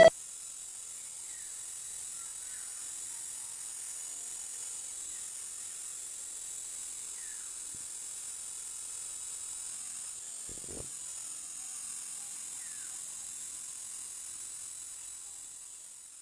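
Steady high-pitched drone of insects, with faint short bird chirps every few seconds and a single low thump about ten seconds in; it fades out near the end.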